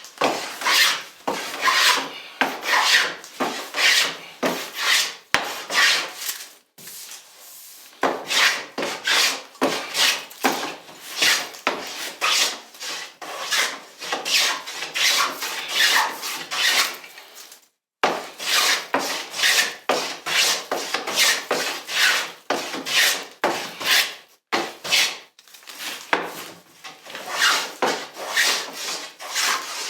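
Hand tool cutting and rubbing along a wooden picture frame molding, shaping its profile in quick back-and-forth strokes, about two a second. The strokes pause about six seconds in, resume about two seconds later, and stop briefly about eighteen seconds in.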